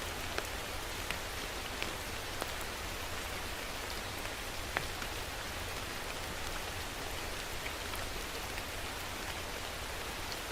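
Steady rain, with a few louder individual drops clicking sharply on a nearby surface now and then.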